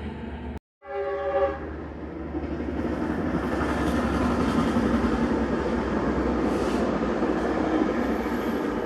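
A short blast of a train's air horn, several tones sounding together, about a second in. It is followed by the steady rumble of a passing train, growing louder.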